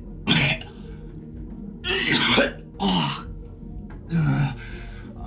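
A person coughing hard, four harsh coughs spaced out over a few seconds, with quiet background music underneath.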